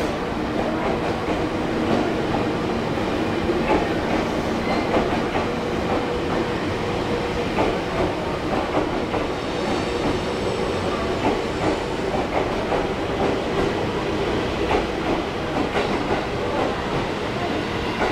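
A train rolling along the track with a steady hum and wheels clacking over rail joints.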